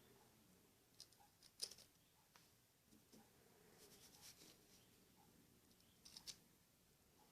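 Near silence, with a few faint, light clicks and taps scattered through it.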